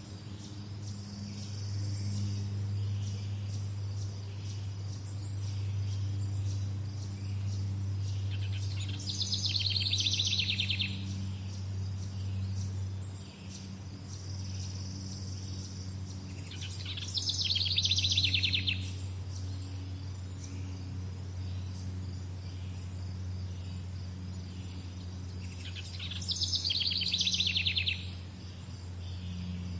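A songbird repeats a short, fast trilled song of about two seconds, three times, roughly every eight seconds. Faint insect chirping and a steady low hum run beneath it.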